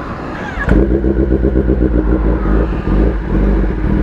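Kawasaki ZX-10R superbike's inline-four engine running loud through its aftermarket SC Project exhaust. It comes in suddenly under a second in and then holds a steady note.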